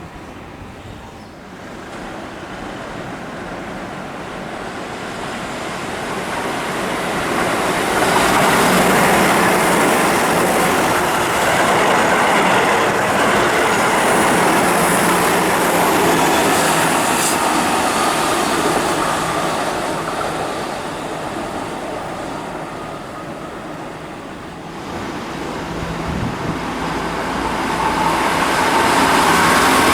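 A Keihan electric train passing through a station on the quadruple-track section. Its running noise builds over the first several seconds, stays loud for about twelve seconds, then fades. Near the end the noise builds again as another train approaches.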